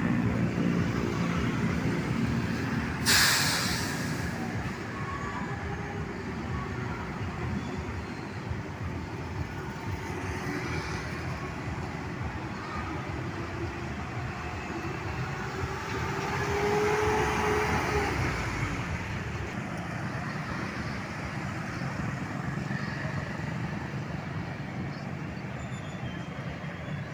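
Heavy trucks and buses running in traffic, with a sharp air-brake hiss about three seconds in. Later an engine note rises and swells as a heavy vehicle pulls past.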